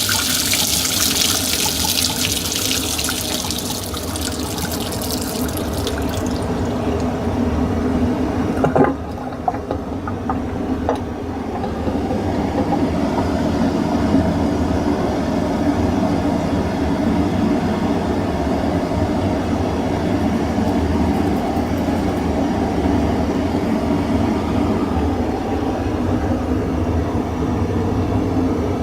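Haier HDC1804TW portable dishwasher at the end of its wash cycle: the hiss of spraying water dies away about six seconds in. A click comes about nine seconds in, and then a pump runs with a steady hum.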